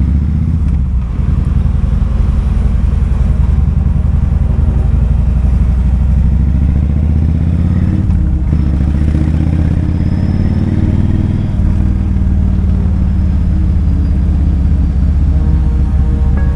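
Kawasaki Vulcan 2000's big V-twin engine running on the move, its revs climbing slowly from about halfway and dropping suddenly about two-thirds of the way through.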